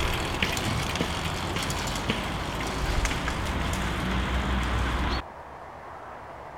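Steady road noise with a low rumble and a few faint ticks. It cuts off abruptly about five seconds in, leaving a quieter hiss.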